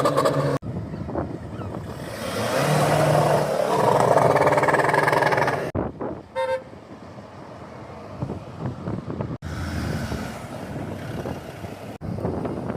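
Car engines running and passing in a string of short clips, loudest from about two to six seconds in, with a short car horn toot about six and a half seconds in.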